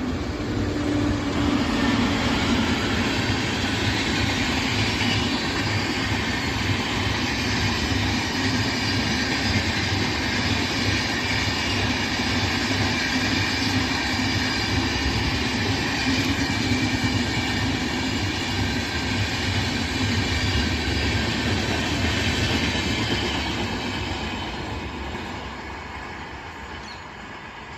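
Passenger express hauled by an Indian Railways WAP-7 electric locomotive passing on the rails, its wheels and coaches rumbling and clattering steadily, then fading over the last few seconds.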